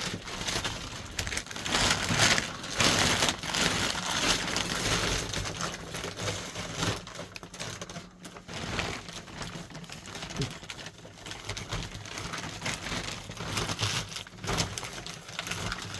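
Plastic sheeting crinkling and rustling as it is handled, with an irregular crackle, loudest two to four seconds in.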